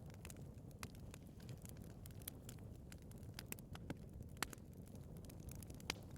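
Wood fire burning in a fireplace: a low steady rumble of the flames with irregular sharp crackles and pops of burning wood, the loudest pops about four and a half and six seconds in.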